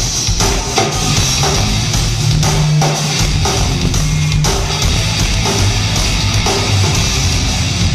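Heavy metal band playing loudly live, with drum kit, bass and guitar together.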